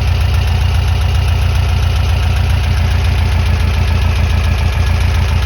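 Air-cooled Volkswagen bus engine idling steadily with an even, fast pulsing.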